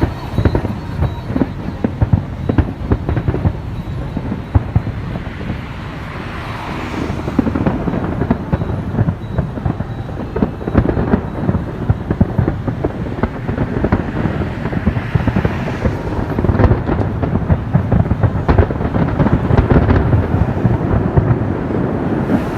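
Fireworks going off in a dense, continuous barrage of bangs and crackles over a low rumble, growing louder in the second half.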